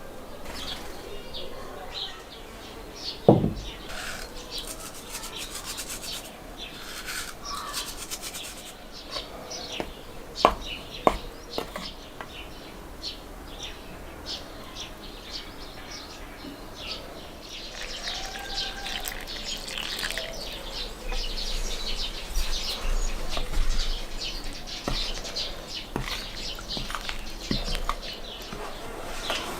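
Hands working food on a cooking surface: rubbing and scraping strokes with scattered sharp knocks, the loudest about three seconds in and two more near ten and eleven seconds. The rubbing grows denser and busier over the last third. Birds chirp now and then.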